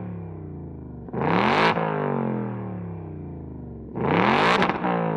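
Ford Mustang engine being revved through a loud valved exhaust set to full track mode. It revs twice, about a second in and again about four seconds in, each time climbing quickly and then falling back slowly toward idle.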